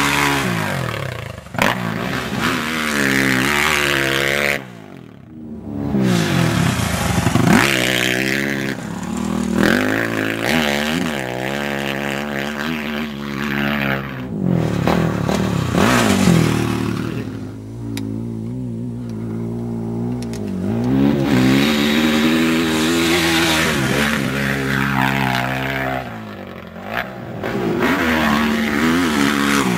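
Honda 450 motocross bike engine revving hard and easing off over and over, its pitch repeatedly rising and falling as the throttle is opened and shut, with a brief lull about five seconds in.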